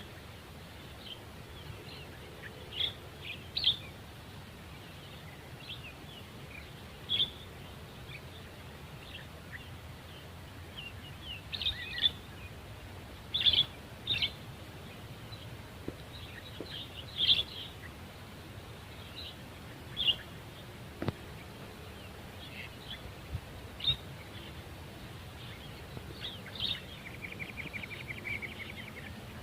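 Birds calling outdoors: short, high chirps repeated at irregular intervals over a steady low background rumble, with a brief rapid buzzy trill near the end.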